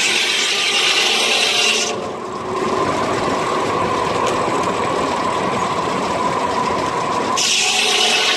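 Steam-powered sawmill blade cutting a log, a steady rasping noise. About two seconds in, the high hiss drops away and a lower, heavier sound with a steady hum takes over for about five seconds, then the hiss comes back.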